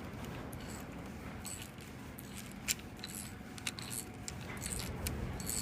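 Scattered light metallic clicks and clinks as a hand tool turns a Time-Sert driver, threading a steel thread-repair insert into the drain plug hole of an aluminium engine case.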